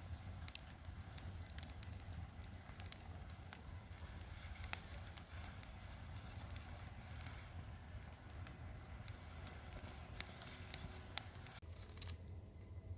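Firewood fire crackling faintly, with scattered sharp pops over a low steady rumble.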